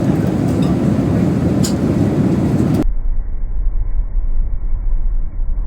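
Steady rumble of an airliner cabin in flight aboard a Boeing 787-9. About three seconds in it cuts abruptly to a duller, muffled low rumble.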